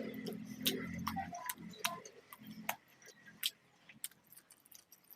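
Close-miked eating sounds: sharp, wet mouth clicks and lip smacks from chewing, scattered and irregular, growing sparser toward the end.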